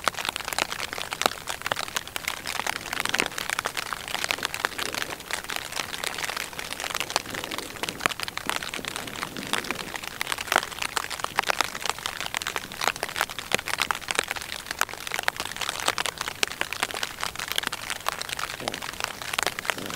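Steady rain from a thunderstorm, a dense patter of many small drops striking close by.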